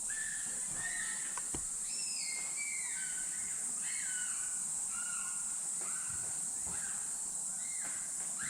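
A steady high-pitched insect drone, with many short, high whistling calls over it, each held or sliding down in steps, repeating throughout.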